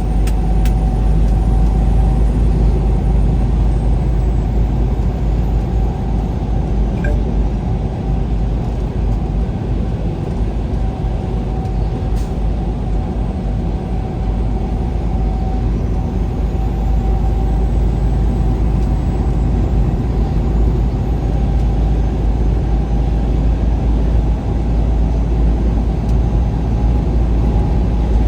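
Semi truck cruising down the highway, heard from inside the cab: a steady low rumble of diesel engine and road noise with a faint steady whine through it.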